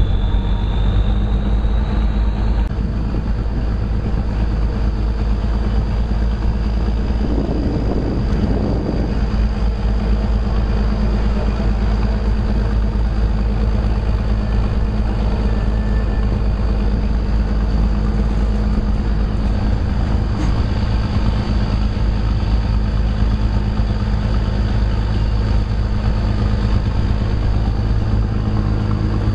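Narrow-gauge train in motion, heard from aboard: the diesel locomotive's engine runs with a steady drone over the rumble of the cars rolling on the track.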